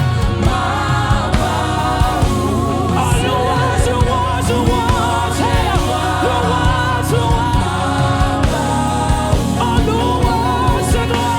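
Live gospel worship music: sung vocals over a band, with drums and bass keeping a steady beat.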